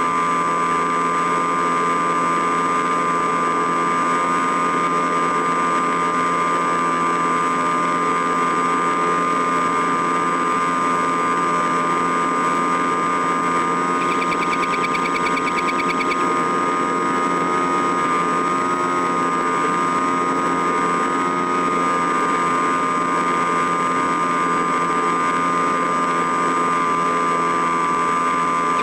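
A small motor running steadily with a high, unchanging whine. Between about 14 and 16 seconds in, a brief fast rattling is added higher up.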